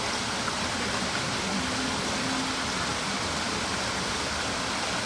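Steady rushing noise, like falling or running water, holding even throughout.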